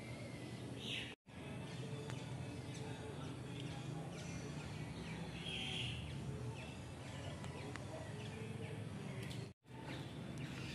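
Birds chirping now and then over steady background noise. The sound cuts out briefly twice.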